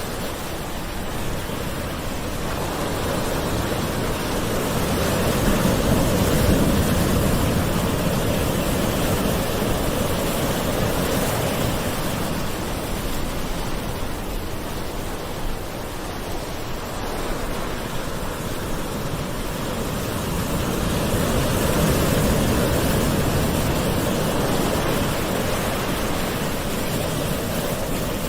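Gentle ocean waves washing onto a shore in a steady rush, swelling slowly twice, about 6 and 22 seconds in, and easing off between.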